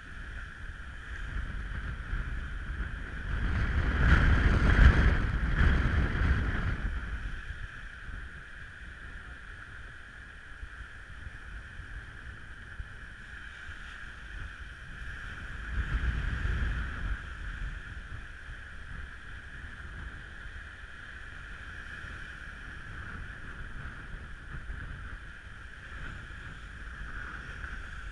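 Strong wind and water noise aboard a Lagoon 620 sailing catamaran running downwind in a gale. Two heavy gusts hit the microphone, a long one about four seconds in and a shorter one around sixteen seconds. Underneath runs a steady high-pitched tone.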